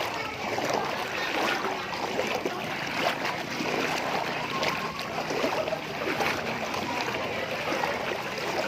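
Flowing water: a steady rush with many small splashes and ticks through it.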